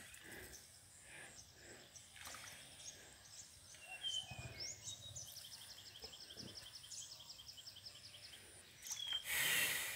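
Quiet rural outdoor ambience: faint bird calls, with a fast, even run of high chirps in the middle, and a brief rush of noise near the end.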